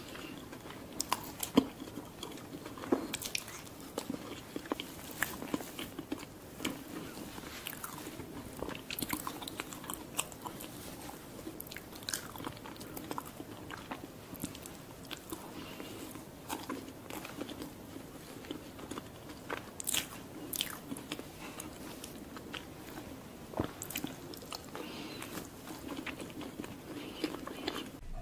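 Close-miked chewing of soft layered sponge cake, with wet mouth smacks and frequent sharp clicks scattered throughout.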